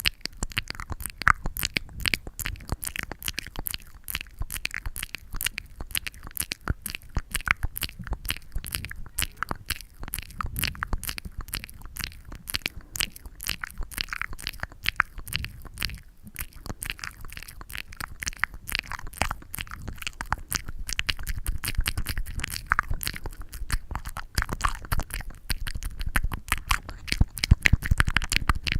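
Close-up sticky ASMR sounds: a dense, irregular run of quick sticky clicks and crackles, with a low rumble underneath.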